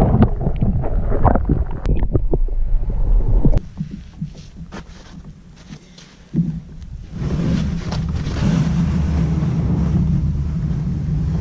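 Wind blowing across the microphone: a low rumble with a few knocks, loud for the first few seconds, dropping away, then rising again and holding steady from about six seconds in.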